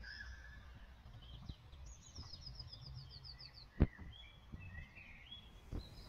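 Faint songbird song: scattered chirps and a quick run of about a dozen repeated notes about two seconds in, over a low steady rumble. A single sharp click just before four seconds in.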